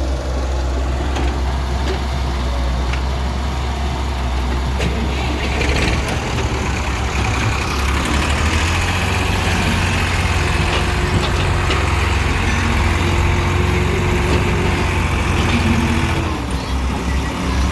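Diesel engine of a Hyundai Robex 1300W wheeled excavator running steadily, working harder from about six seconds in. A thin steady whine joins around the middle and drops in pitch near the end.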